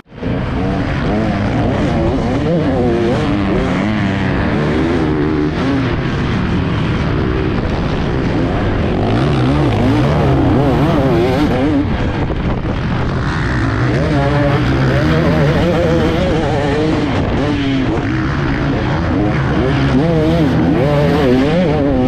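KTM 300SX two-stroke dirt bike engine being ridden hard, its pitch swinging up and down over and over as the rider revs through the gears and backs off.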